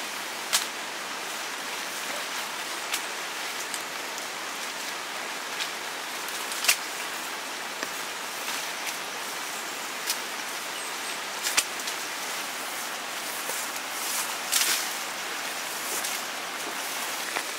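Steady rain falling, an even hiss with occasional sharp ticks scattered through it.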